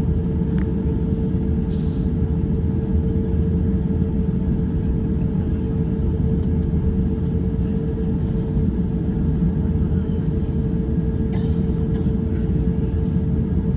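Airbus A350-900 cabin noise: a steady low rumble of the engines and airflow, with a steady hum above it and a few faint clicks.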